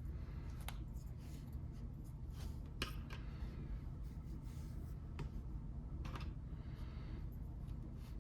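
Plastic Lego pieces being handled and pressed together: scattered short clicks and rustles at irregular moments, over a steady low hum.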